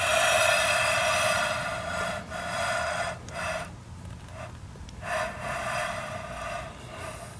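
Machined metal sliding on a flat metal surface during a dial-indicator flatness check, giving a steady, high squealing rub in two long strokes with a short break between.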